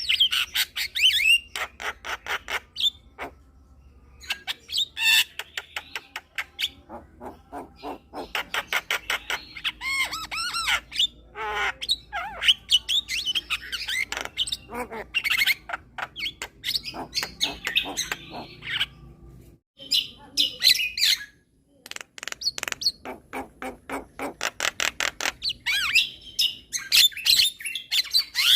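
Javan myna (jalak kebo) singing: a chattering song of rapid repeated clicking notes mixed with whistled phrases, delivered in bursts with short pauses between them.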